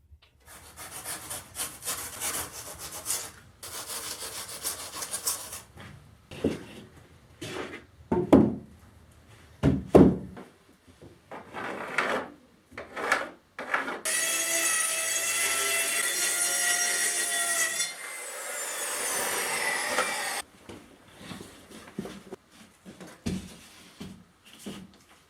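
Carpentry on wooden ceiling boards: a saw rasping through wood in repeated strokes, then a few heavy knocks. A steady whine with several tones follows for about four seconds, then gliding tones.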